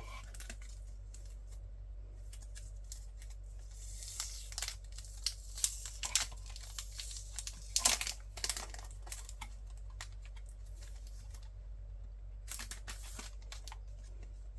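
Packaging being unwrapped and handled: irregular crinkling and tearing with small clicks, busiest in the middle and again near the end, over a steady low hum.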